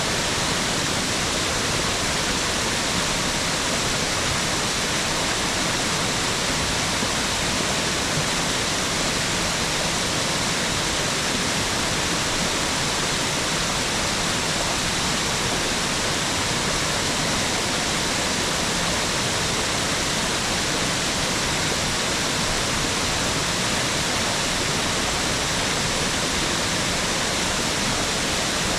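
Mountain waterfall: a steady, even rush of falling water, bright and hissing, with no breaks or changes.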